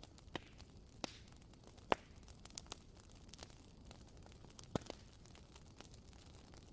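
WoodWick candle's wooden wick crackling: about six sharp pops at irregular intervals over a faint steady hiss, the loudest about 2 s in and just before 5 s.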